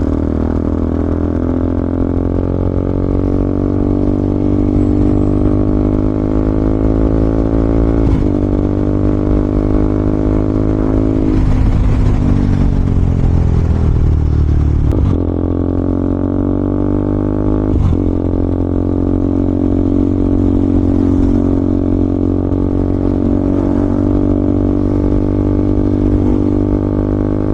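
KTM Duke 200's single-cylinder engine running steadily under way, the note broken briefly three times at gear changes.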